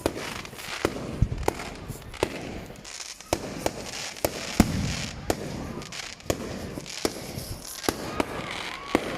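Fireworks going off: a string of sharp bangs and cracks at irregular intervals, roughly one or two a second, over a steady crackling hiss.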